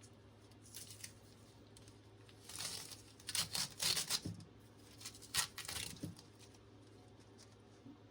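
Compressed air blowing out hydraulic hose fittings in several short hissing blasts, clustered between about two and a half and six seconds in. The blasts clear debris from the fittings before they are connected.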